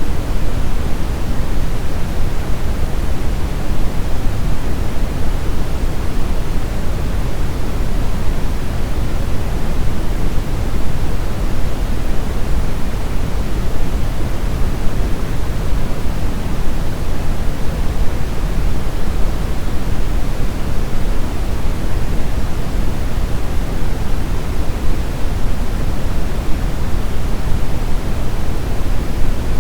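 Brown noise: a steady, deep rushing hiss with no tones or changes, strongest in the low end.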